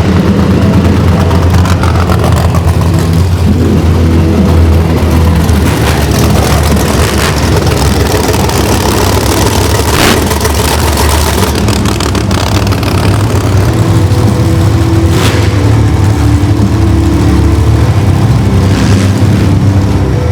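Mini monster truck engines running and revving loudly, with a few sharp cracks.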